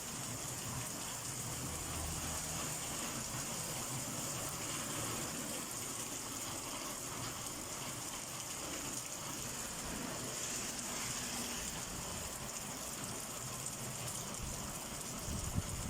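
Heavy rain pouring down steadily in a summer downpour, an even rushing hiss of water, with a few short low bumps near the end.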